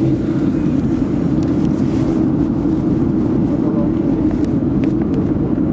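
Steady cabin drone inside a Boeing 757-200 in flight on approach: engine and airflow noise, low and even throughout.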